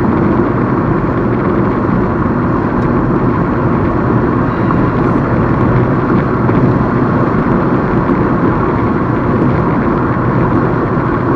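Steady road noise inside a Chevy Equinox's cabin while cruising on the interstate: engine, tyre and wind noise as an even, unchanging rumble.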